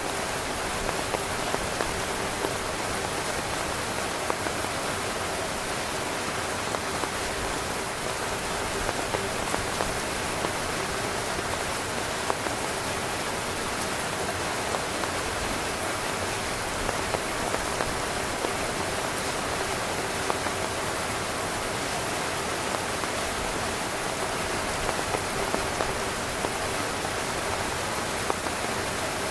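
Heavy rain drumming steadily on a tent's fabric, a dense hiss with many individual drop taps standing out.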